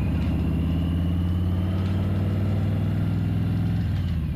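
A vehicle engine running steadily at an even pace. Its note shifts slightly about half a second before the end.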